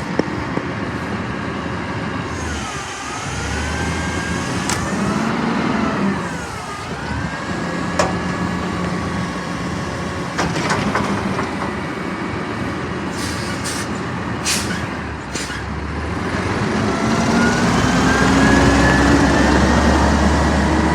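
A garbage truck's engine runs. Its pitch dips twice in the first seconds, with a few sharp clicks and knocks in the middle. Near the end it revs up, rising steadily in pitch and getting louder.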